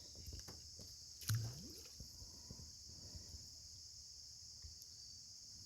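Steady high-pitched chirring of crickets or other insects, with a few small handling clicks and one sharp knock about a second in, the loudest sound.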